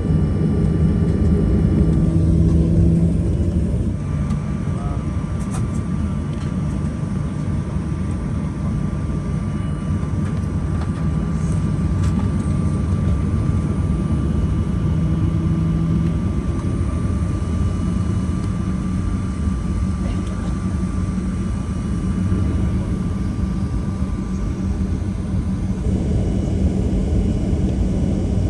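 Steady cabin drone inside a Boeing 737-800 on the ground before takeoff: engines and air-conditioning running at low power, a deep rumble with a faint steady whine and a low hum that drops out about halfway.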